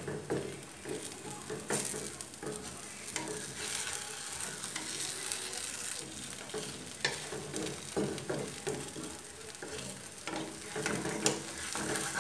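Shredded pancake frying in oil in a nonstick pan, with a steady sizzle. A wooden spatula scrapes and knocks against the pan many times as the pancake is pressed flat and then turned.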